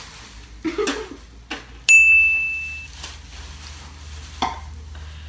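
A single bright ding: one clear high ringing tone that starts sharply a little under two seconds in and fades away over about a second.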